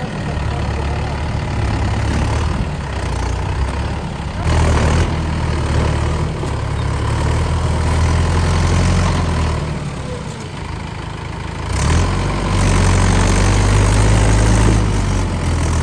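Tractor diesel engines running, rising twice into long, louder surges under load, about four seconds in and again about twelve seconds in, typical of a tractor straining to pull a stuck tractor out of mud.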